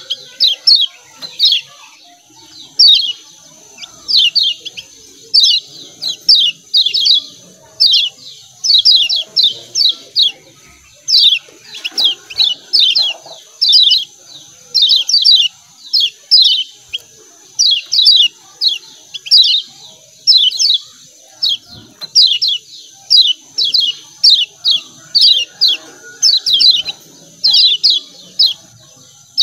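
Kecial kuning (yellow white-eye) giving its 'ciak ciak' call: quick clusters of three to five short, high, falling chirps, repeated about once a second, over a faint steady high hiss.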